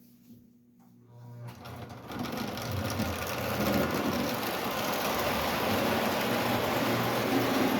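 Prewar Ives standard gauge 0-4-0 electric toy locomotive and its tinplate coaches running on three-rail track: the motor and wheels start about a second in, build up over the next two seconds, then run steadily with a low electric hum.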